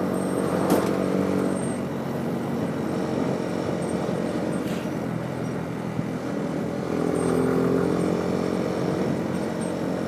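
Motorcycle engine running steadily under way, its pitch rising a little about seven seconds in, over a steady rush of wind and road noise.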